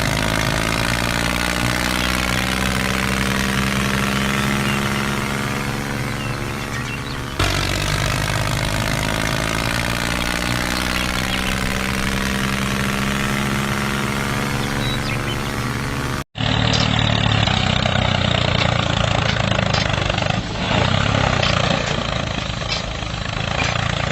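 Tractor engine running steadily. About two-thirds through it cuts abruptly to a different, duller recording of engine noise.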